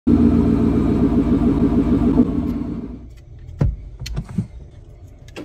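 Car engine running with a loud pulsing rumble that fades away over the first three seconds. Then a few small clicks and taps as the diecast model car is handled.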